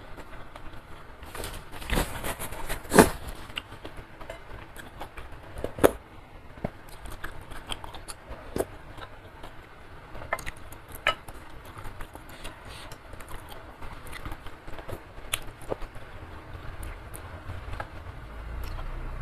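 Close-miked eating: wet chewing of noodles and chewy beef skin, with scattered mouth clicks and a few louder clicks and knocks, the loudest about three seconds in.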